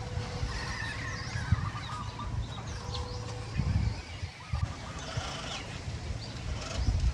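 Birds calling: short chirps and honk-like calls over a low, uneven rumble.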